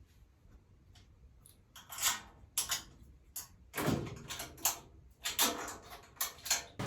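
A run of irregular knocks and short scrapes, like parts being handled or slid against each other. It starts about two seconds in after a quiet start.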